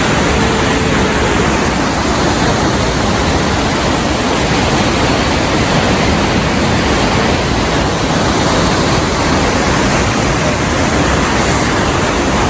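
Loud, steady rush of fast-flowing river water in a canyon, running too strong and rough for boats.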